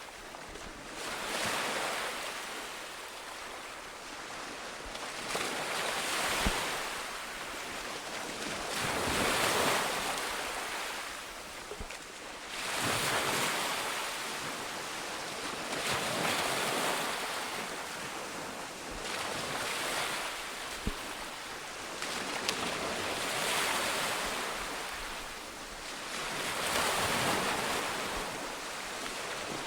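Ocean waves breaking on a beach, the surf swelling and ebbing in a slow rhythm, one wash every three to four seconds.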